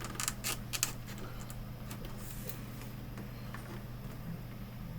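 Plastic prying tool clicking and scraping against a monitor's plastic casing as it is worked into the seam: several sharp clicks in the first second, then a few faint ticks, over a steady low hum.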